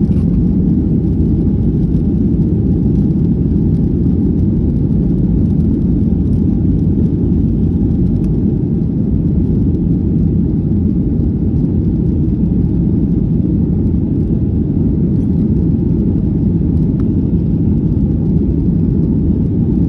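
Airliner cabin noise: a steady, loud low rumble of engines and airflow heard from a passenger seat.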